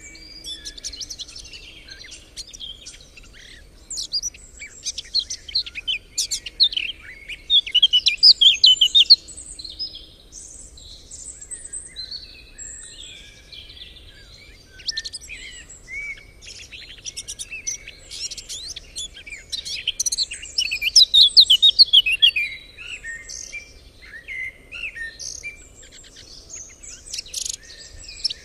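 Songbirds singing in chorus: many overlapping high chirps, whistles and fast trills, with two louder rapid song phrases about a quarter of the way in and again past two-thirds.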